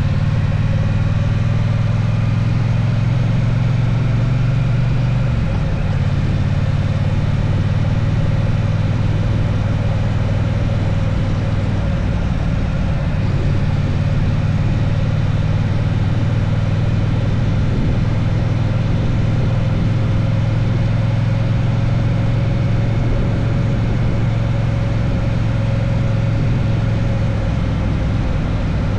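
Triumph Bonneville T120's 1200 cc parallel-twin engine running steadily under way, its note shifting slightly about five seconds in.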